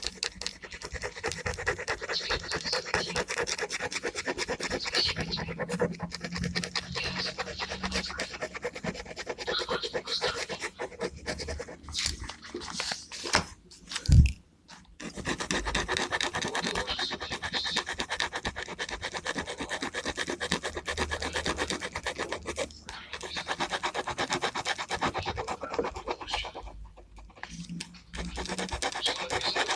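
Gel pen scratching over paper in quick, dense back-and-forth strokes while colouring in. There are two short pauses and one loud knock about halfway through.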